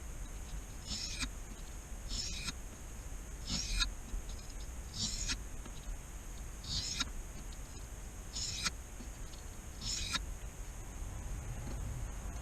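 A pocket knife's blade drawn across a wet 1,000-grit whetstone in sharpening strokes: seven short scrapes, one about every one and a half seconds.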